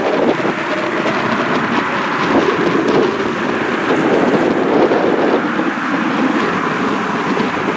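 Strong gusty wind buffeting the microphone: a loud, steady rough rush with no clear tone.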